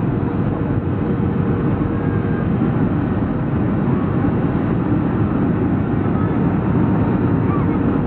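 Steady cabin noise of a Boeing 737-400 on approach: its CFM56 turbofan engines and the rush of air past the fuselage, a dense low noise with a faint steady hum.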